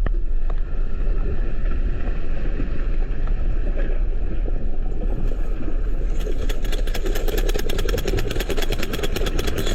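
Deep, steady rumble of an earthquake heard underwater in a swimming pool. About six seconds in, rapid even clicking or rattling, roughly eight a second, joins it.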